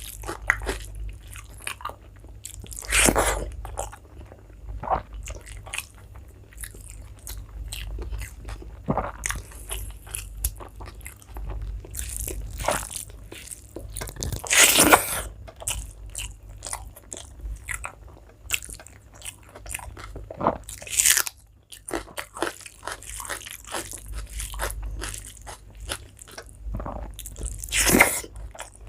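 Close-up chewing and mouth sounds of someone eating rice and curry: continual small wet clicks and smacks with crunchy bites, and four louder bursts of mouth noise spread through.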